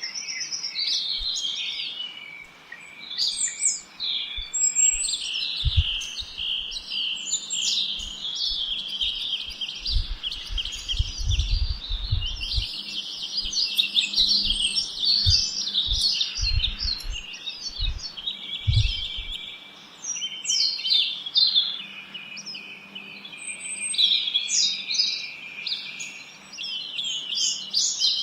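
A chorus of small songbirds chirping and singing at once, many high, quick calls and trills overlapping without a break. Low bumps come and go through the middle.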